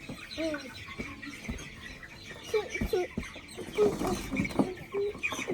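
Flock of three-week-old Cornish cross chicks peeping and clucking, many short calls overlapping, with a few sharp knocks among them.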